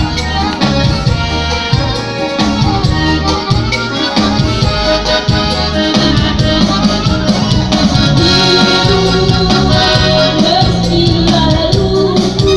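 Music played on a Yamaha PSR-S970 arranger keyboard: an accordion-like melody over a steady, busy backing beat.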